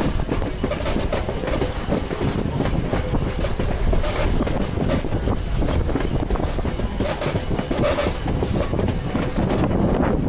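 Railroad train rolling along the track: wheels clicking over the rail joints over a steady rumble.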